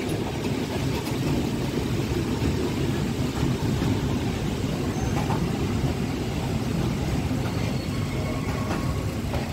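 Steady low rumble of a passenger train coach's wheels on the rails as the train rolls into a station, heard from the open doorway.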